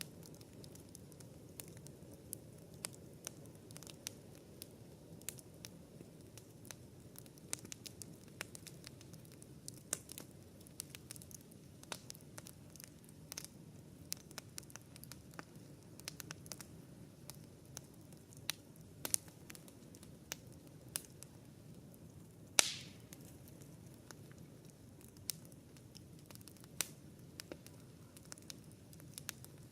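Wood campfire crackling: frequent sharp snaps and ticks over a low steady rush, with one loud pop about three quarters of the way through, followed by a short hiss.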